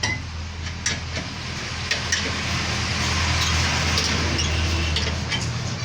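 A road vehicle passing close by, its noise swelling and fading over a few seconds, over a steady low hum and a few light clicks.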